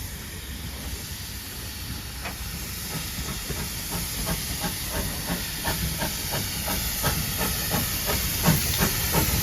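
Double-headed steam train, led by GWR 0-6-2 tank 6695, approaching: a steady hiss of steam with a regular beat of about three strokes a second that grows louder as it nears.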